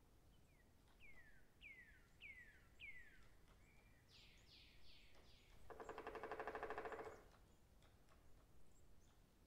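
Woodland birdsong, faint overall: four clear whistled notes about half a second apart, each falling in pitch, then a run of quicker, higher falling notes, then a loud buzzy rattle lasting about a second and a half, the loudest sound. Faint crackles of footsteps in dry leaf litter come and go.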